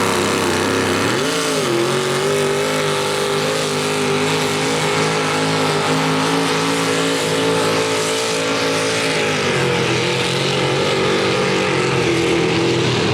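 A mini rod pulling tractor's engine running loud at high revs. Its pitch dips and climbs back about a second in, holds steady through a pull, and steps down a little about nine and a half seconds in.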